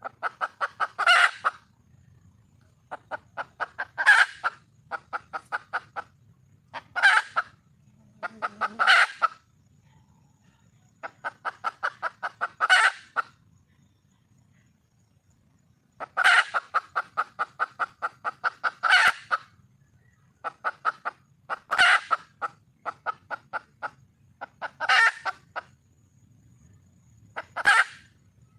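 Red junglefowl hen calling for a mate: bouts of rapid clucks, each a second or two long and ending on a louder note, repeated every few seconds.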